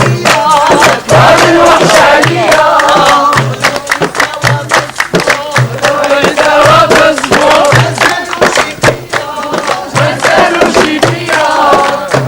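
A group singing a chant together to a steady beat of claps or hand drum, about one and a half beats a second.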